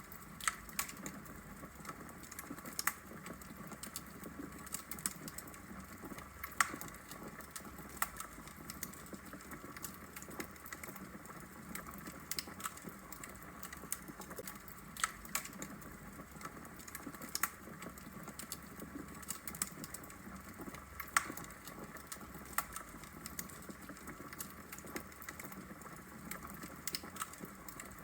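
Log fire crackling in a fireplace: a steady low hiss with irregular sharp snaps and pops, a louder pop every few seconds.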